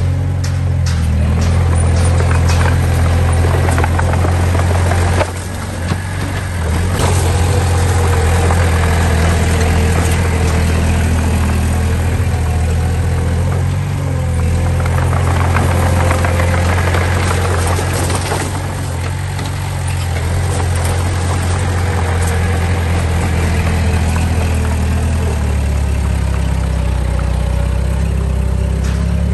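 Heavy construction machine's diesel engine running steadily with a deep hum, with scattered clicks and clanks. It dips briefly about five seconds in.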